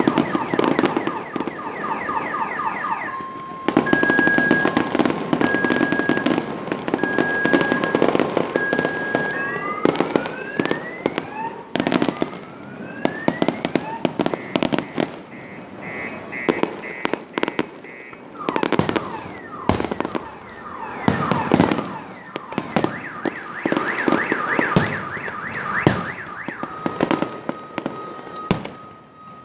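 Fireworks going off in a dense run of bangs and crackles, with a few rising whistles about ten seconds in. A car alarm warbles and beeps through it, loudest at the start and again near the end.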